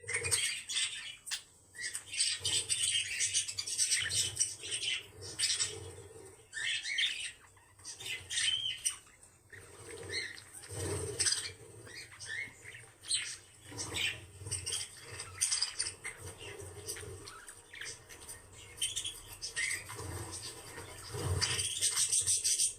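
Pet birds chattering: a dense run of short, high chirps and squawks from more than one bird, overlapping, with a louder burst of calling near the end.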